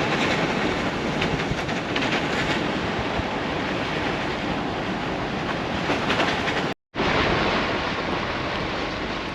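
Chevrolet Colorado ZR2 Bison driving on a wet gravel road in four-wheel drive: steady tyre and road noise with a fine crackle of gravel. It breaks off for a moment about seven seconds in.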